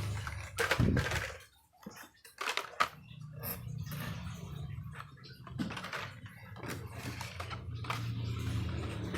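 Irregular clicks and rustles of packaging being handled, cardboard and plastic blister packs of Hot Wheels cars, over a low steady hum.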